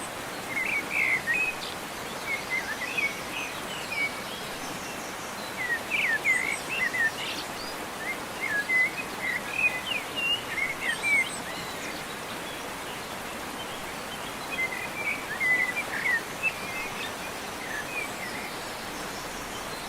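Songbirds chirping in spells of quick, rapidly bending notes, with a few seconds' gap between spells, over a steady hiss.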